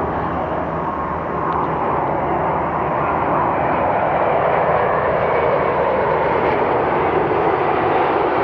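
Jet engine noise of a British Airways Boeing 777-200 airliner, a steady rushing noise that grows slowly louder as the aircraft nears.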